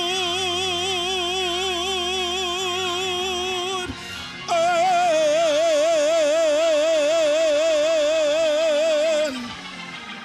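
A solo church singer holding two long notes with wide vibrato as a hymn ends. The first note breaks off about four seconds in, and after a short pause a higher note is held for about five seconds before it fades.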